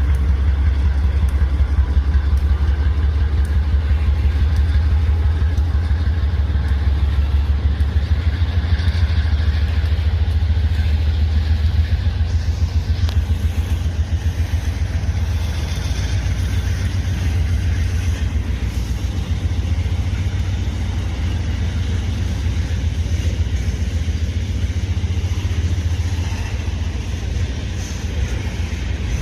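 CPKC freight train passing: a loud, steady low rumble with a fast, even pulse, easing slightly about twelve seconds in.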